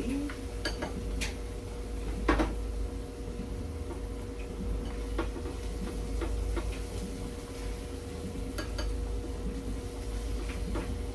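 Metal utensil clinking and scraping against a cooking pot while pasta is stirred, a few scattered knocks with the loudest about two seconds in, over a steady low hum.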